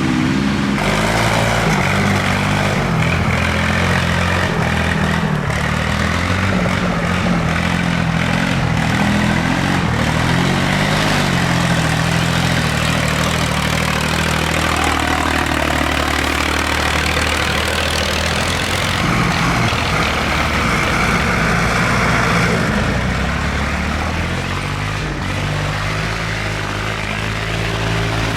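Tractor engines running, a steady low rumble whose pitch shifts a little as the engines change speed.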